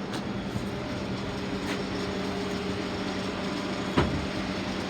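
A steady low machine hum over background noise, with a single sharp knock about four seconds in.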